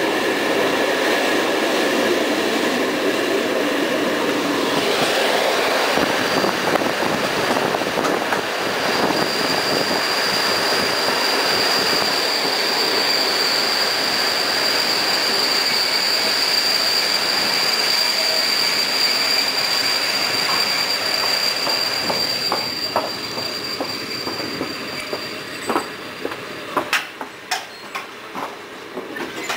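Running noise of a passenger train coach heard from inside the carriage, with a high steady squeal from about nine seconds in as the train brakes into a station. Near the end the running noise dies down as it slows, leaving a few separate clacks of the wheels over rail joints and points.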